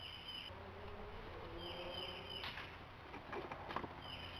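Birds calling outdoors: a high chirping call that repeats about every two seconds, with a lower wavering call in the first two seconds. A little after three seconds there are faint clicks of plastic parts being handled under a car's dashboard.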